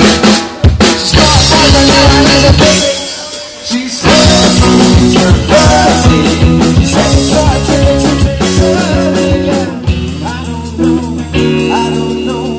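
Rock music: a band with drums, guitar and a singing voice.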